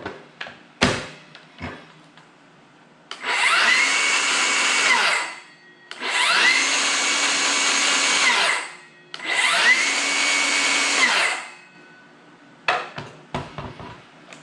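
Milwaukee M18 Fuel cordless rear-handle circular saw's brushless motor triggered three times with no load, each time spinning up quickly to a steady whine, holding for two to three seconds, then winding down. Clicks and knocks of the saw being handled come before and after the runs.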